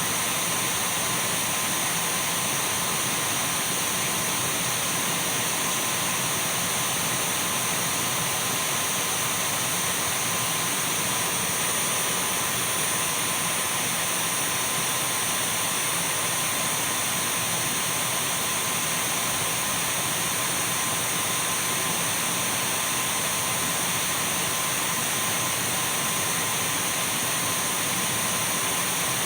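Dyson V12 cordless stick vacuum running steadily: an even rush of air with a thin high whine held above it and a fainter steady mid tone, never changing.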